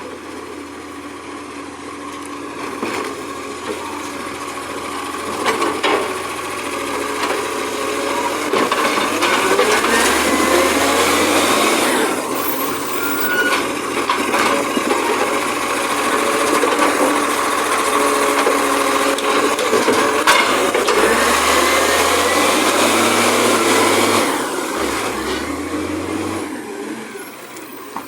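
Garbage truck engine revving up and down while its hydraulics work, with a rattle and whine over it. The pitch rises and falls in two long surges, loudest through the middle.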